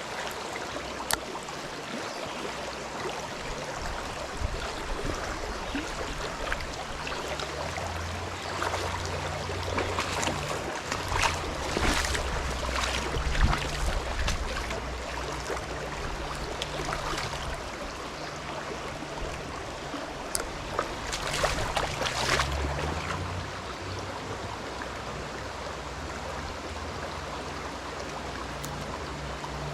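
Steady rush of flowing stream water, with a few brief louder swells around the middle.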